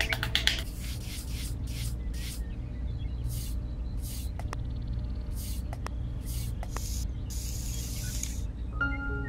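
Fine sand being scratched by hand to draw lines: about ten short, hissing scrapes, the longest about a second near the end, over a steady low hum.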